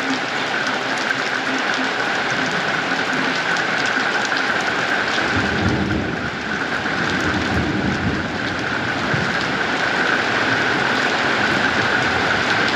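Steady rain pouring down during a thunderstorm, with a low rumble of thunder rolling through about halfway in.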